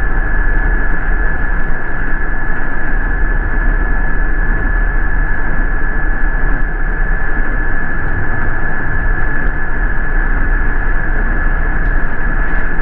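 City bus running along, heard from inside: a steady low rumble with a constant high whine over it.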